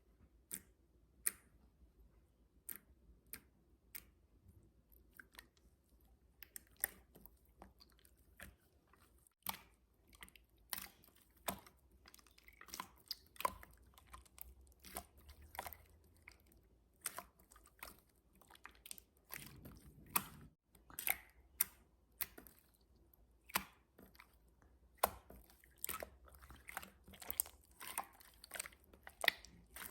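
Jelly slime being kneaded and squeezed by hand, giving faint, irregular sticky clicks and pops that come sparsely at first and then much more often from about ten seconds in.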